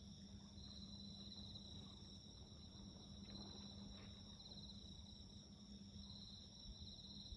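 Crickets chirping in a faint, steady chorus: pulsed trills of about a second each repeat every second or two over a continuous high insect drone.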